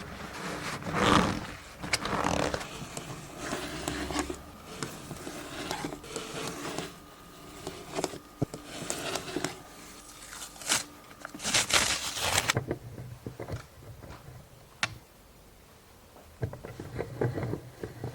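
Hand leatherworking tools on leather: irregular scrapes and rubs with a few sharp clicks and taps, going quieter about two-thirds of the way through.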